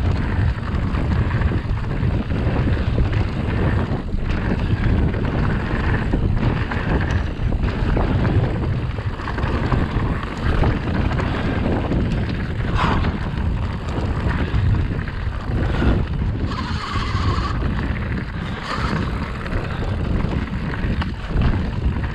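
Wind buffeting the microphone over steady tyre noise from an e-mountain bike ridden fast down a trail, with frequent knocks and rattles from the bike over rough ground.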